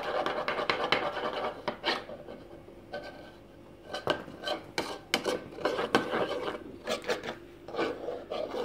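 Spoon stirring and scraping around a bowl of vaseline-and-glue slime mixture in irregular strokes, easing off for about a second partway through.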